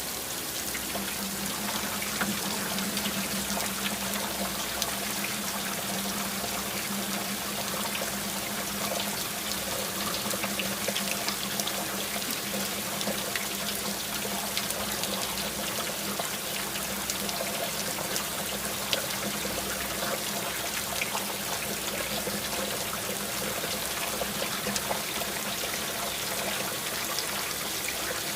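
Steady rain with many small drops pattering and water trickling. A low steady tone runs underneath from about a second in.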